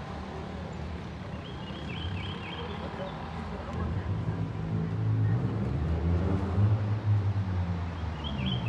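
A motor vehicle's engine running close by, growing louder from about four seconds in. A short high chirping is heard twice, once near the start and again near the end.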